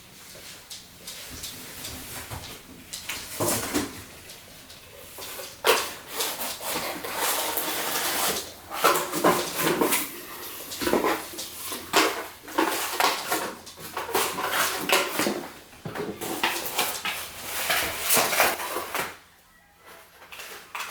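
Packaging and plastic vacuum parts being handled: irregular rustling, crinkling and clattering that goes quiet briefly near the end.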